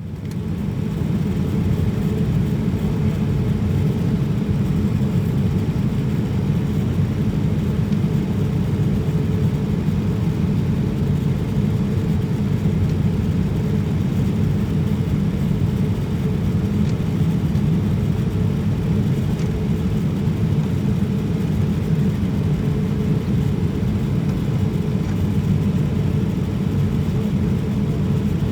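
Boeing 787-9 airliner's steady low rumble of airflow and engines during the approach to landing, as heard from inside the cabin. It stays even and unchanging, with a faint steady hum above it.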